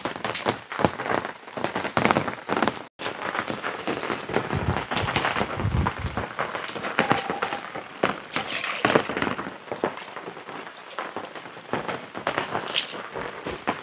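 Rain falling steadily, with many scattered cracks, knocks and rustles from camping gear being handled and packed away.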